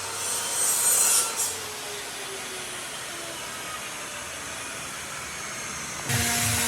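Wood being sawn or rasped: a loud scraping stroke lasting about a second near the start, then a steady quieter hiss. Shortly before the end it cuts abruptly to a different sound with a low, evenly pulsing hum.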